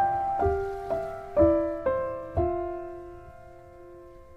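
Background piano music: slow, gentle single notes about every half second, then a last chord that is left to ring and fade away over the second half.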